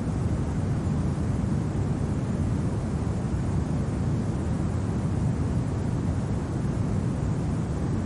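Steady low rumble of winter wind, an even roar that holds throughout with no gusts or separate sounds.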